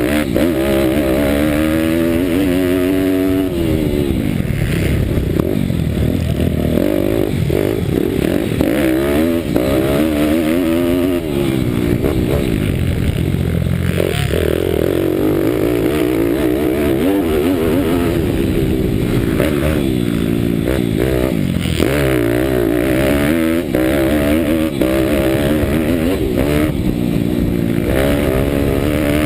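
Bucci Moto pitbike's single-cylinder Daytona Anima 190 cc four-stroke engine heard on board at racing speed, revving up and falling back again and again as the rider accelerates and backs off.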